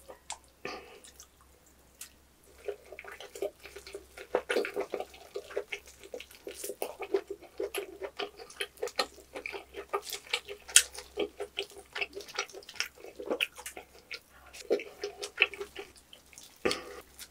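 Close-miked wet chewing of roast pork knuckle meat and skin: a dense run of quick, moist mouth clicks that starts about two and a half seconds in.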